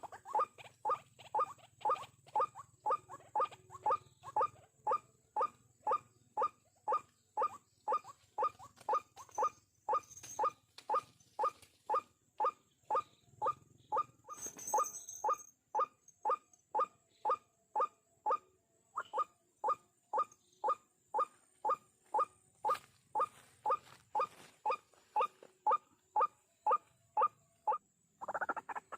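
White-breasted waterhen (ruak-ruak) calling in a long, even series of short, sharp notes, a little over two a second, as used to lure the bird for trapping. There is a brief rustle about halfway through.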